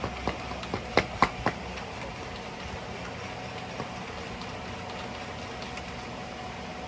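A handful of sharp metal clinks from hand tools working on the engine-to-transmission bolts, about five in the first second and a half, then only a steady low shop hum.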